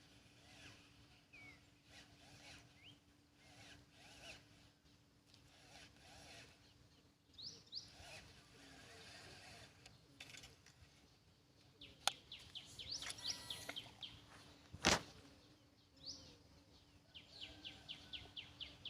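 Wild birds singing and calling, with scattered short chirps and, in the second half, fast trills of repeated high chirps at about six a second. A sharp click about twelve seconds in and a louder knock about three seconds later.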